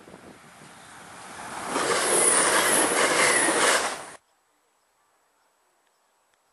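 A train passing close by. The rush of its wheels on the rails builds up and turns loud, with a few thin, high-pitched wheel squeals on top, then cuts off suddenly about four seconds in.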